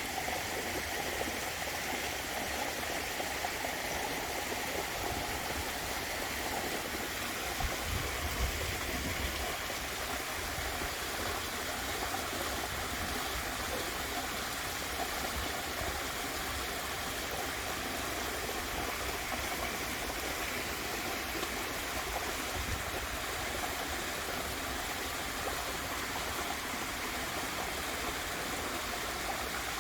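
Garden waterfall with water splashing and running steadily, with a brief low rumble about eight seconds in.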